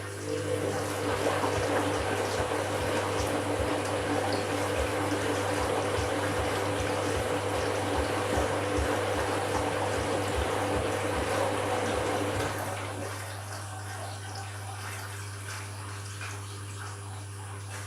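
Candy washing machine on an empty bleaching cycle, with water rushing through it alongside a steady pump-like hum and irregular low knocks. The water stops about twelve seconds in, leaving a quieter steady hum.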